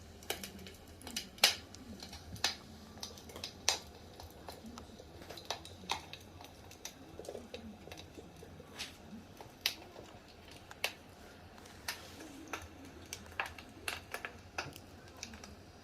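Firewood burning in a fireplace, crackling with irregular sharp pops, a few of them louder than the rest.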